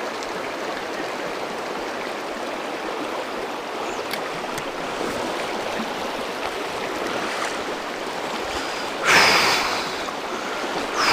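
River water rushing steadily over a trout stream's riffles, an even hiss of flowing water. About nine seconds in there is a brief louder surge of noise lasting about a second.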